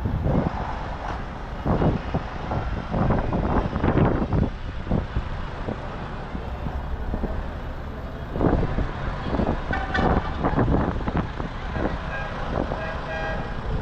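Tractor engines running as tractors drive past, the rumble swelling and fading as each goes by, with a short pitched horn-like sound near the end.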